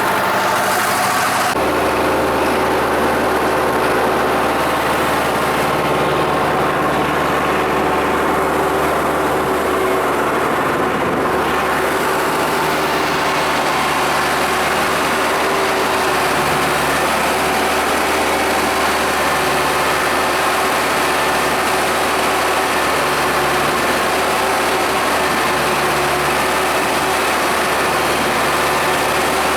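Tractor diesel engine running steadily with a feed mixer wagon in operation; its low tone shifts about a second and a half in, then holds steady.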